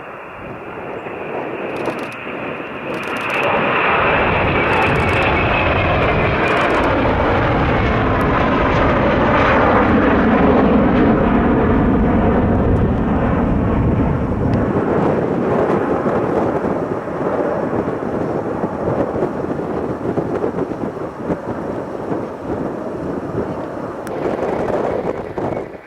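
Jet airliner passing close by. The engine noise builds over the first few seconds, a whine falls in pitch as it goes by, and a deep rumble peaks about ten seconds in, then eases off only slowly.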